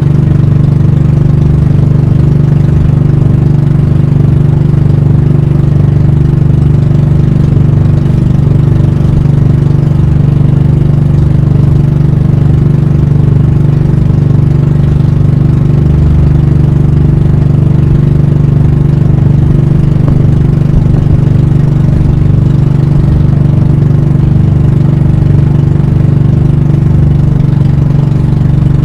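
Pump boat (banka) engine running loud and steady at an even speed throughout.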